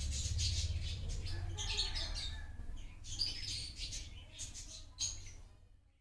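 Small birds chirping in quick, irregular calls over a low steady hum, the whole fading out near the end.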